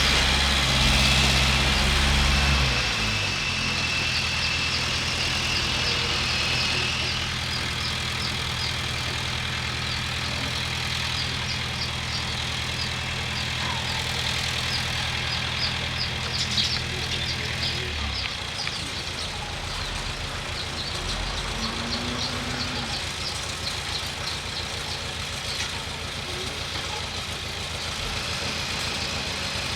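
Bulldozer's diesel engine running steadily. Its revs drop about three seconds in, and at about eighteen seconds it settles to a lower, pulsing idle.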